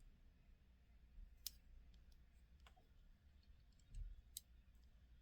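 Near silence with a few faint, scattered clicks and a soft low thump about four seconds in.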